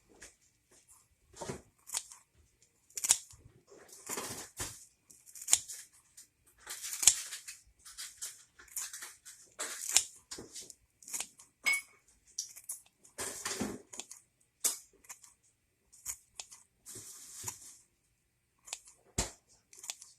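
Kitchen utensil work during cooking: irregular short scraping and snipping strokes, one to three a second with pauses, and a few sharp clicks, one loud click near the end.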